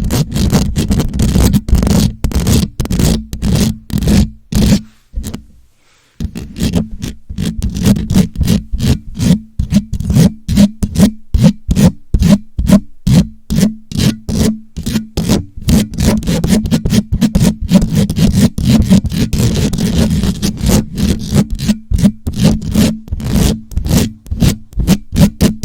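A microphone being scratched directly, a fast run of short scratching strokes several times a second, stopping briefly about five seconds in, then carrying on.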